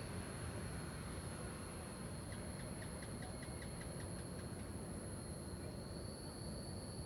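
Insects trilling steadily in a high, unbroken drone. A little over two seconds in comes a quick run of about ten short chirps, roughly five a second, over a low background rumble.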